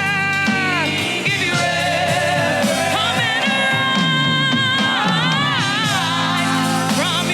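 Live gospel praise and worship music: a singer holds long notes with vibrato, sliding down at times, over a steady band backing.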